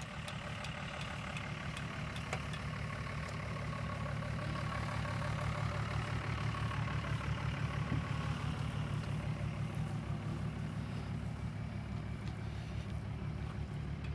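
A car engine running at low revs with a steady, pulsing rumble. It grows louder toward the middle and then eases off a little.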